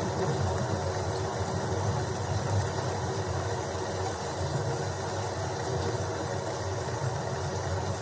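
Steady rain with a continuous low rumble underneath, without distinct claps or drops standing out.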